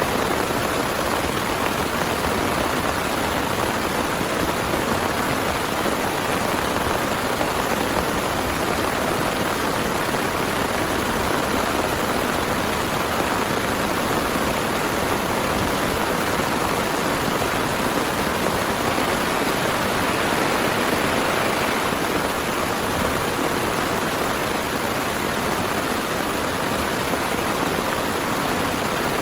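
Heavy rain falling steadily: an even, unbroken hiss that holds the same level throughout.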